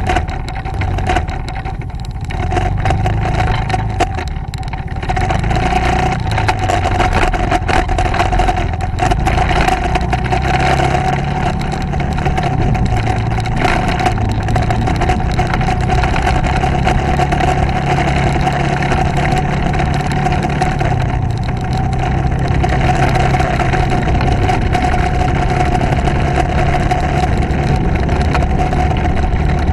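Motorcycle engine running while riding: a steady low engine hum under a rushing noise, a little quieter in the first few seconds.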